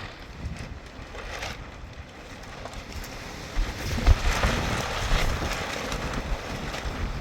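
Strong wind gusting and buffeting the microphone, picking up into a louder gust about halfway through.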